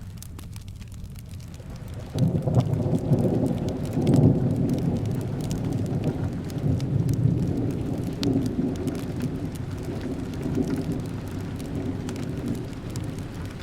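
Steady rain with a long roll of thunder that breaks in suddenly about two seconds in, is loudest around four seconds, then rumbles on and slowly fades. Faint sharp crackles of a wood fire are scattered through it.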